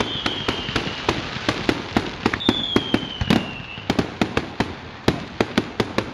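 Fireworks display: rapid, irregular crackling and popping of bursting shells, several cracks a second, with a heavier bang about three seconds in. Two long whistles that fall slightly in pitch run through the crackle, one ending about a second in and another from about two and a half to almost four seconds.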